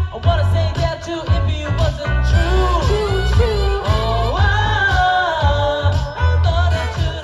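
A live band playing a song, with a lead vocal singing a melody that slides up and down over a steady, heavy beat.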